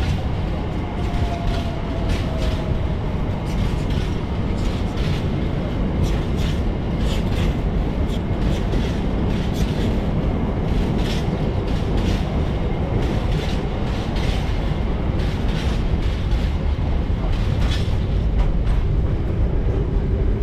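A freight train passes with a steady low rumble as its wagon wheels click repeatedly over the rail joints. A faint falling whine is heard about a second in.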